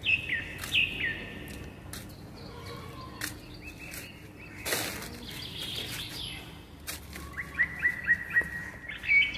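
Birds calling: two loud calls sliding downward in pitch right at the start, scattered fainter calls, and a quick run of about six short chirps near the end. A brief sharp knock or rustle comes about halfway through.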